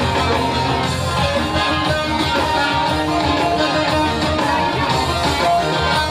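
Live amplified folk music: an instrumental passage of a Turkish türkü led by a plucked string instrument, with no singing.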